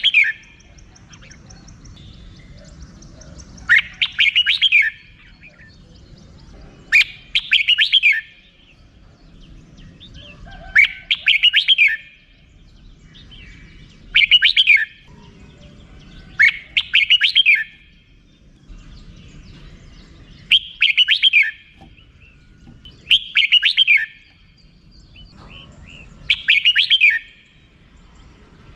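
Red-whiskered bulbul giving its rapid chattering 'rik' call. Loud bursts about a second long repeat roughly every three seconds, eight times.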